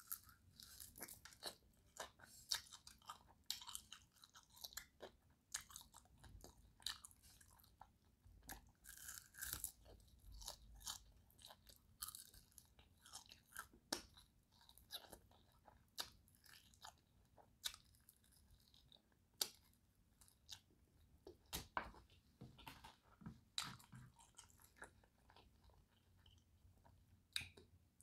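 Biting and chewing crispy fried chicken wings: irregular crunches and crackles of the crisp skin between quieter chewing.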